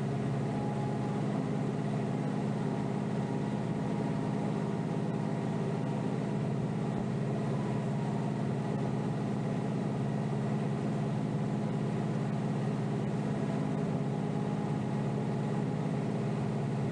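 Kioti DK5320SE tractor's diesel engine running at a steady speed, heard from the operator's seat while pushing snow.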